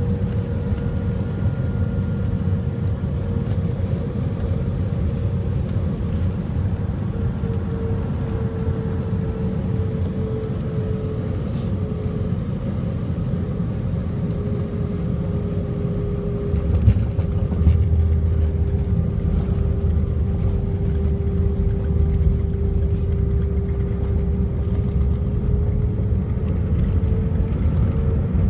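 Airbus A320 heard from inside the cabin on landing: a steady engine and airflow rumble with a faint whine that slowly sags in pitch. About two-thirds of the way through a sharp bump and a heavier low rumble follow, the sound of touchdown and the wheels rolling down the runway.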